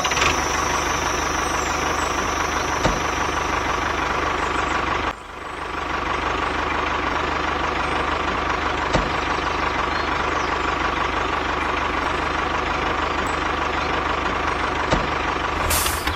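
A small engine or motor running steadily, with a brief dropout about five seconds in before it carries on.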